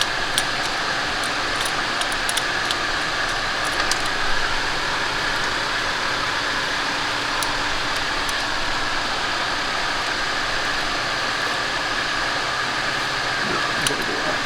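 Steady whirring machine noise with a thin high whine throughout. Over it come a few light metallic clicks of wrenches on the fuel-line fittings, mostly in the first few seconds.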